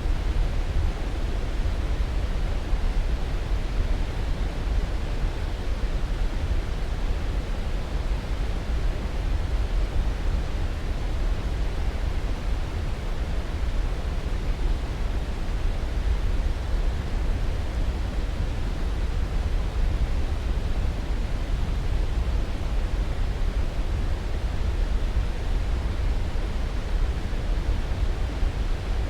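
Steady, unchanging white-noise sleep sound: an even rushing hiss with most of its weight low down, like pink noise.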